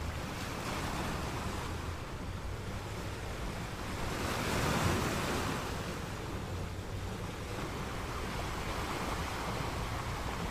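Sea surf washing on a pebble beach, a steady wash with one wave swelling louder around the middle.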